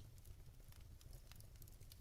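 Log fire in a fireplace crackling faintly: irregular small pops and snaps over a steady low rumble.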